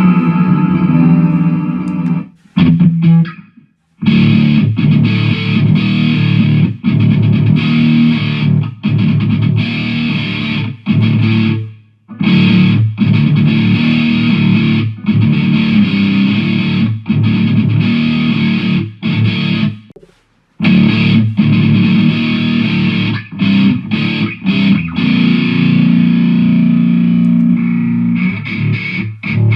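Jackson electric guitar played through a Mooer GE150 multi-effects processor on a distorted patch: rhythmic metal riffing, cut off abruptly by short stops a few seconds in, about midway and about two-thirds of the way through.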